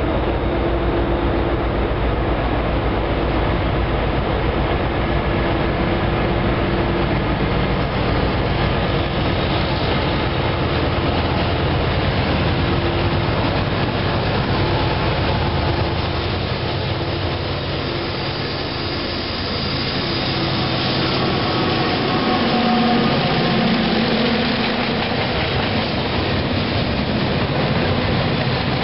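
Freight train approaching and passing close by: a steady diesel rumble that swells again about two thirds of the way through as the locomotive goes by, followed near the end by the cars rolling past.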